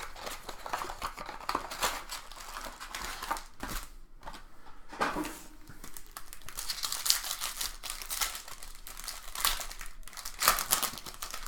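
Trading card box packaging and wrappers being torn open and crinkled by hand, an irregular run of crackles and rips.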